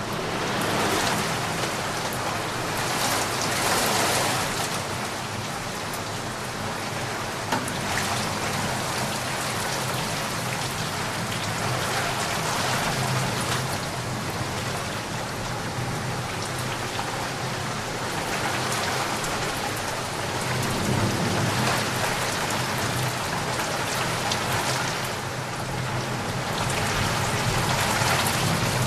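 Steady rain falling on a surface, a dense hiss of drops that swells and eases every few seconds.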